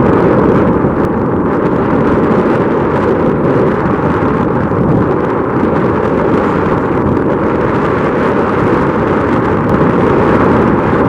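Strong wind buffeting the microphone: a loud, steady rumbling noise without a break.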